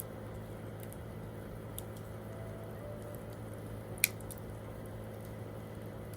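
Wood campfire crackling with small scattered pops and one loud sharp pop about four seconds in, over faint soft piano notes.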